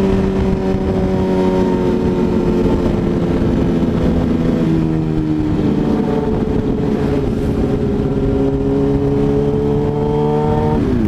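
Motorcycle engine running steadily under way. Its pitch drifts slowly down, shifts about halfway through, then climbs gradually until it cuts off abruptly at the end.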